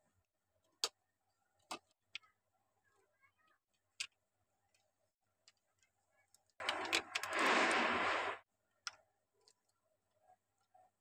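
Plastic LEGO bricks being handled and snapped together, making a few sharp, separate clicks. Past the middle there is a louder rustling noise lasting nearly two seconds.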